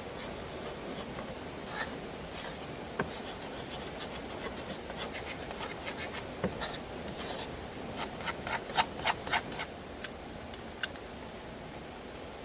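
Rubbing and scraping of handled objects with scattered sharp clicks, including a quick run of clicks about eight seconds in, over a steady background hiss.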